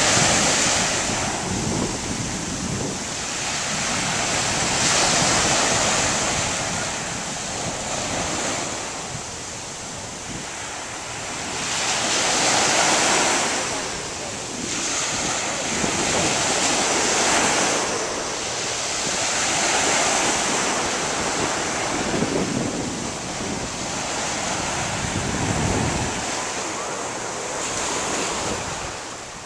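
Ocean surf: waves breaking and washing in, swelling and fading every few seconds, with wind buffeting the microphone.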